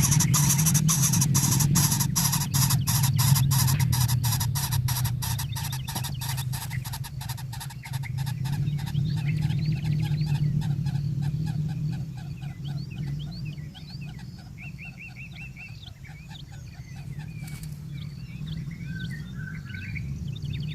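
Birds calling: a long run of evenly spaced clicking notes that fades away, then short quick high chirps later on, over a steady low hum.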